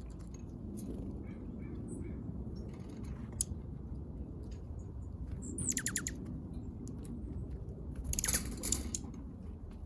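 Small backyard birds: a quick high call sweeping downward about six seconds in, and a brief rustling burst a couple of seconds later, with scattered faint ticks over a steady low background rumble.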